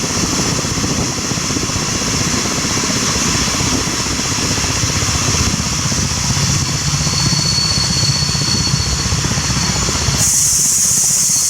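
Steam locomotive and its train running with a dense low rumble and fast pulsing, a thin high squeal partway through, then a sudden loud hiss of escaping steam near the end.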